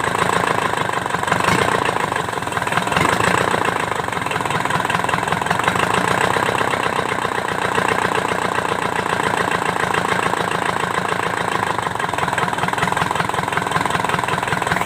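Kubota V1501 four-cylinder diesel engine idling steadily with an even, rapid rhythm.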